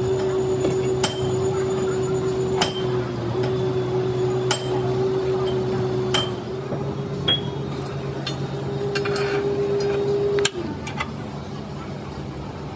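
A workshop machine's motor running with a steady hum, with sharp metallic clinks every second or two; it shuts off with a click about ten seconds in.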